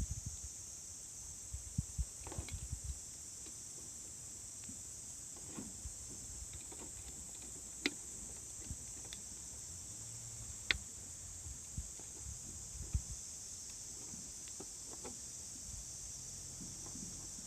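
A steady high-pitched chorus of insects chirping, with scattered sharp crackles and pops from a wood campfire, a few louder snaps about 8 and 11 seconds in.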